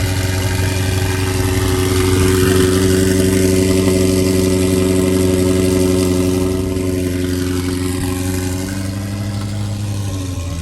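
A car engine idling steadily at an even, unchanging pitch, growing slightly weaker near the end.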